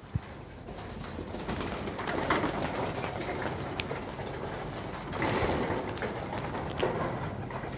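Pigeons cooing, with two louder, noisier stretches about two and five seconds in and a sharp click at the very start.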